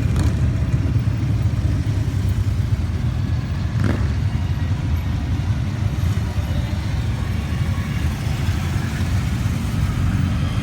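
Motorcycle engines of a group ride running in a steady low rumble, with a short rising swish of one passing by about four seconds in.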